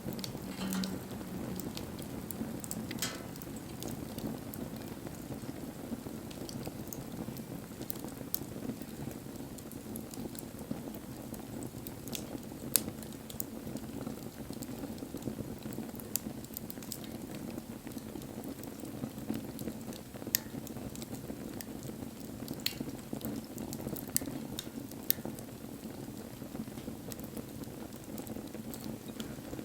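Wood campfire burning: a steady low rush of flame with scattered sharp crackles and pops from the wood.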